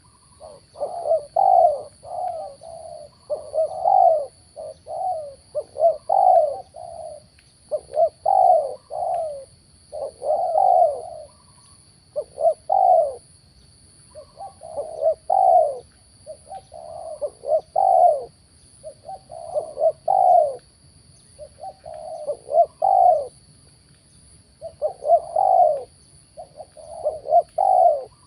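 Spotted doves (tekukur) cooing over and over, phrase after phrase every second or two. A faint, steady high-pitched whine runs underneath.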